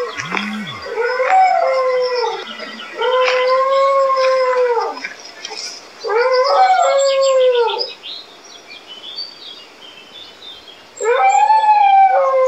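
A pack of dogs howling together in long drawn-out howls, several voices overlapping, in four rounds with a quieter pause of about three seconds before the last. A short low falling sound comes near the start.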